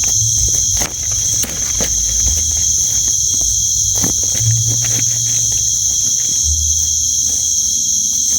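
Steady, loud, high-pitched chorus of night insects such as crickets, unbroken throughout. Underneath are a few short clicks and low rustling knocks from handling.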